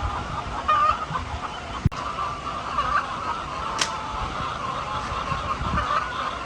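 A large flock of laying hens clucking and calling together in a steady din of overlapping calls, with a sharp click about two seconds in and a brief high squawk near the middle.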